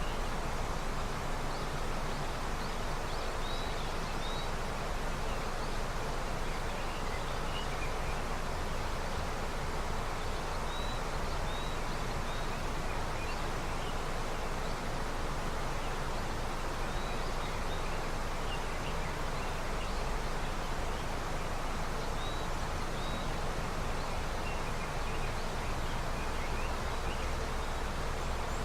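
River running with early snowmelt, a steady rushing flow of water, with a few short high bird chirps every several seconds.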